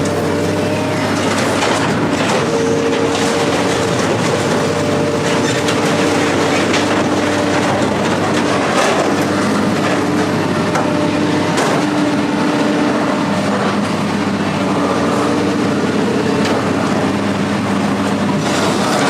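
A heavy vehicle's engine running steadily, with the engine note shifting slightly now and then and scattered rattles and knocks over it.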